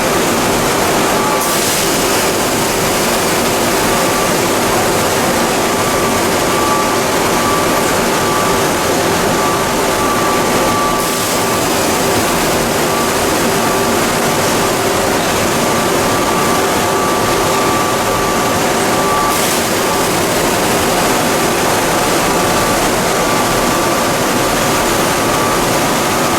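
Plastic pelletizing line machinery running steadily: a loud, even rushing noise with a constant hum and a higher steady whine through it.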